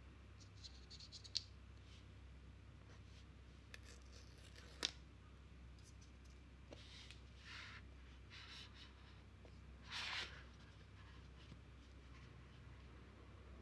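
Hands handling an iPhone 13 Pro box and its packaging: a few faint clicks and taps, with short scrapes of fingers and paper sliding on cardboard about seven and ten seconds in.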